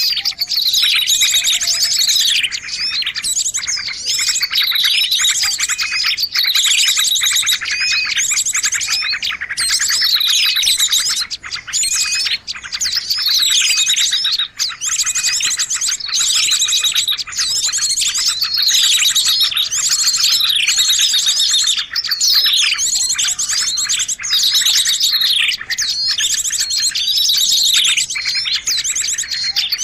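Loud, busy chorus of many small birds chirping and trilling at once, calls overlapping without pause: a noisy bird-lure recording meant to draw in birds of all kinds.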